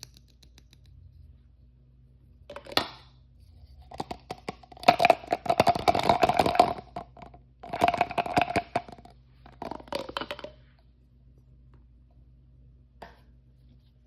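Plastic toy packaging crinkling and tearing as it is opened by hand, in three crackling bursts, the first the longest and loudest, with a single sharp click before and after them.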